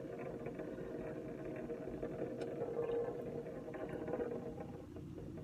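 Vehicle engine idling steadily as a low background hum, with a few faint clicks.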